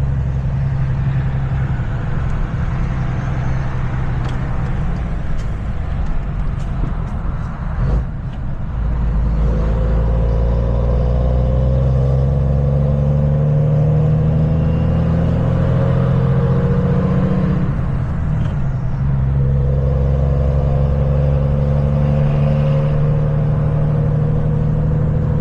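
Vehicle engine and road noise heard from inside the cab while driving, a steady hum whose pitch shifts twice.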